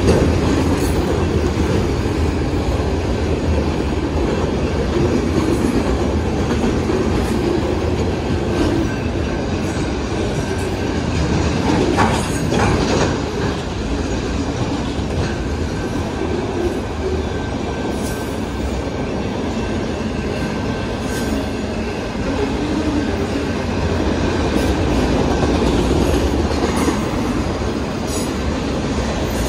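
Autorack freight cars rolling past at speed: a steady rumble of steel wheels on rail, with clacking as wheels cross rail joints. A faint thin squeal runs through the middle of the passage.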